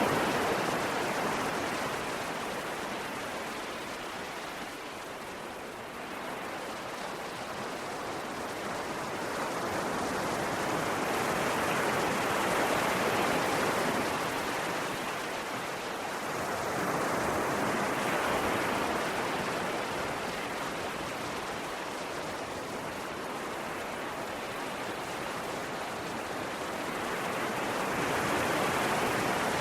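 Ocean waves breaking and washing up on a shore, a steady rush that swells and fades in slow surges several seconds apart.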